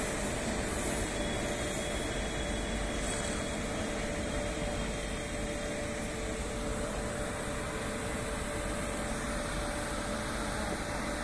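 Steady rumble and hum of electric trains, with a constant mid-pitched whine throughout, easing off slightly in the first couple of seconds.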